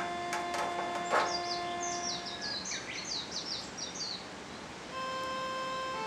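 A small bird chirping, a quick run of short falling chirps, after a few sharp crackles from the wood fire in the first second. A slow melody of held notes fades out about two seconds in and starts again near the end.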